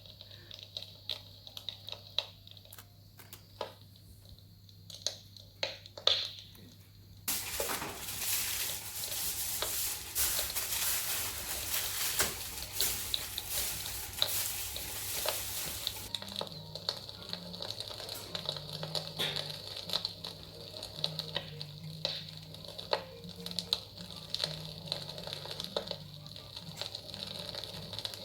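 Sizzling and crackling from a guinea fowl roasting on a spit over a wood fire in a fireplace. Scattered small crackles at first, then a loud hiss that starts abruptly about 7 s in and drops back to a quieter sizzle with crackles near the middle.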